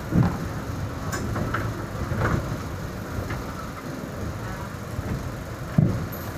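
Railway train running with a steady low rumble, broken by a few short knocks.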